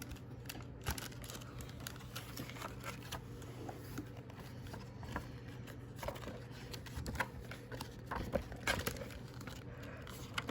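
Paper rustling and light clicks and knocks from handling, scattered through and busier in the second half, over a steady low hum.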